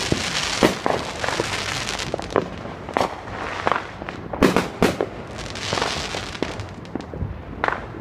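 Fireworks going off: a rapid string of sharp bangs at uneven intervals, with stretches of dense crackling in between.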